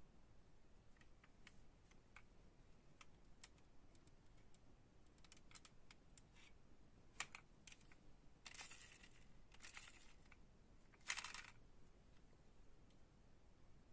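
Scattered light clicks and taps from small diecast toy cars being handled, with three short rustles in the second half, the last the loudest.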